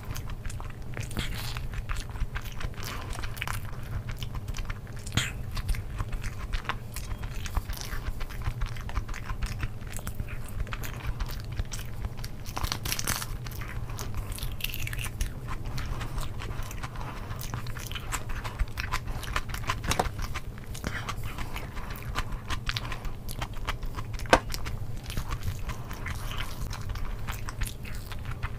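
Close-miked chewing and mouth sounds of eating rice and egg curry by hand, with many small clicks throughout. A sharp click about 24 seconds in is the loudest.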